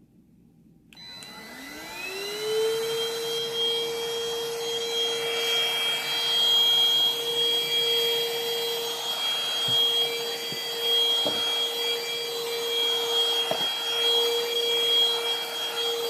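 MOOSOO cordless vacuum switched on about a second in, its motor whine rising quickly to a steady high pitch, then running steadily with a rush of air. A few faint knocks come later on.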